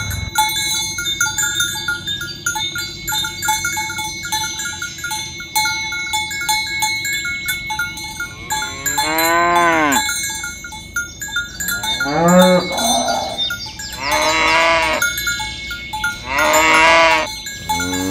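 Cattle mooing, four long moos one after another in the second half, over the repeated clinking of bells worn by the herd as it walks.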